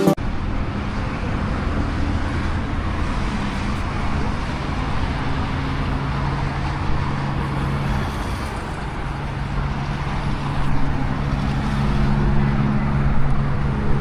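Steady road traffic noise from a busy highway as vehicles drive by, with a low engine hum that grows louder near the end.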